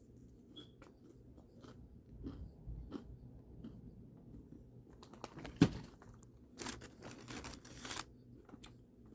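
Close-up chewing and crunching of fried food, a string of small crackles and clicks with one sharp crunch about five and a half seconds in and a busier run of crunching soon after.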